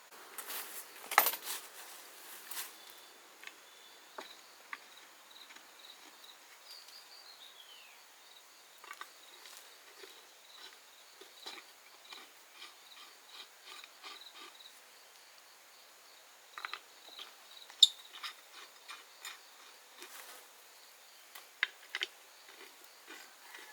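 Scattered light clicks and taps at an irregular pace, a few sharper knocks among them, over a faint steady high-pitched insect chirring.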